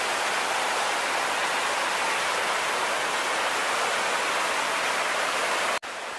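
Waterfall rushing, a steady, even roar of falling water that cuts off abruptly near the end to a quieter rush.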